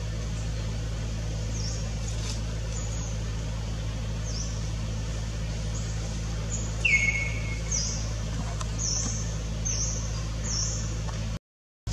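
Small birds chirping in short, repeated, downward-sliding notes over a steady low mechanical hum. A louder, lower falling call comes about seven seconds in. All sound drops out for half a second near the end.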